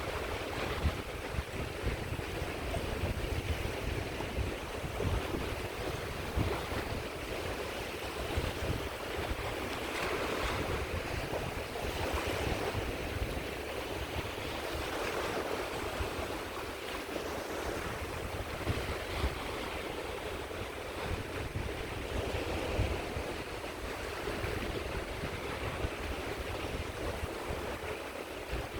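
Sea waves breaking and washing up a shore in a continuous hiss that swells with each surge, over a low rumble of wind buffeting the microphone.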